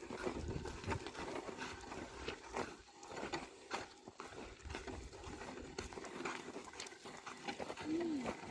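A pair of oxen pulling a wooden plough through a field, with irregular knocks and scuffs of hooves and plough in the soil, and a short call near the end.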